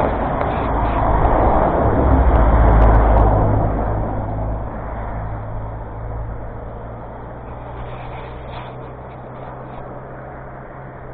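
A road vehicle passing close by, its engine hum and tyre noise loudest about three seconds in and then fading away.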